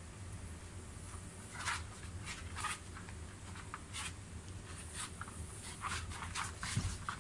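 Shiba Inu's claws clicking faintly and unevenly on the floor as it walks, over quiet room tone.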